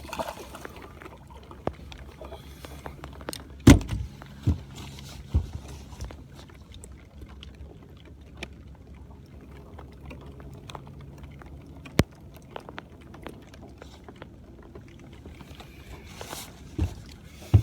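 Knocks and bumps on a fishing boat, the loudest about four seconds in, over a steady low hum.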